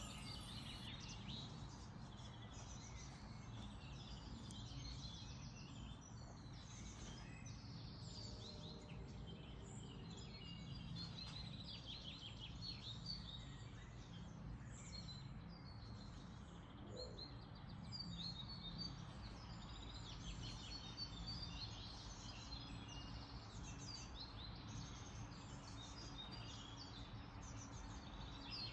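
Small songbirds chirping and trilling, many short quick calls one after another, over a steady low background rumble.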